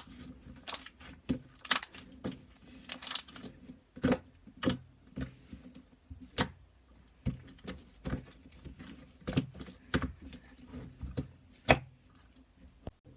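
Slime being squeezed and kneaded by hand, making irregular sticky clicks and pops, several a second at times.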